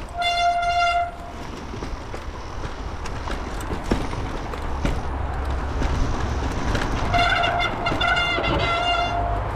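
Mountain-bike disc brakes howling with a steady horn-like squeal, once briefly at the start and again in a longer, stuttering spell near the end, over wind rush and tyre rumble on the trail. The rider calls these brakes pants today.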